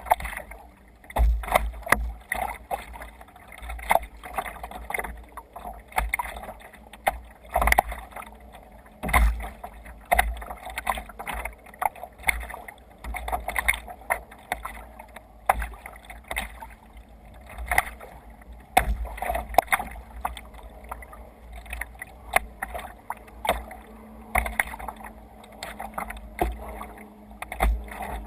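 Water splashing and slapping irregularly against a sea kayak's hull as it moves through waves, with sharp knocks now and then. A constant low rumble of wind on the microphone runs underneath.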